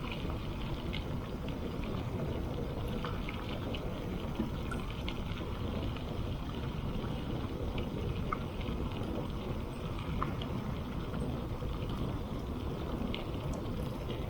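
Bicycle rolling over gravel: a steady tyre rumble with a scatter of small crackles and ticks from stones under the tyres, and wind buffeting the microphone.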